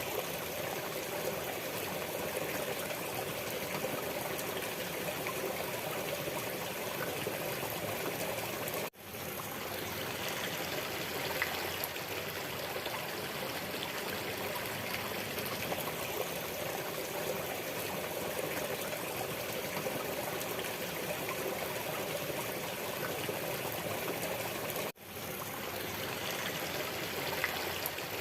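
Steady rushing water of a waterfall, an even splashing wash that briefly drops out and swells back twice.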